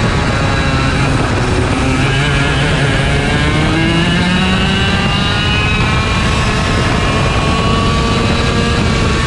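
IAME Leopard 125cc two-stroke kart engine heard on board at racing speed, its pitch climbing steadily for a few seconds, dropping about halfway through, then climbing again before falling near the end.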